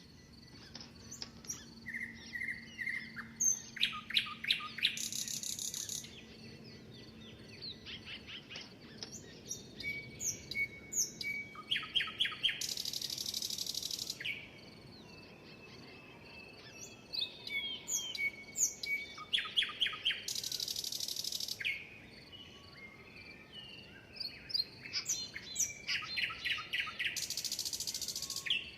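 A songbird singing the same song four times, about every seven seconds: a run of quick high chirps building into a fast trill that ends in a long, hissing buzzy note. Fainter chirps fill the gaps between songs.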